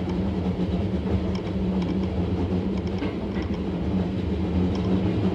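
Hankyu 6000 series electric train running at a steady pace, heard from inside the train: a constant traction-motor hum over the low rumble of wheels on rail, with a few faint clicks.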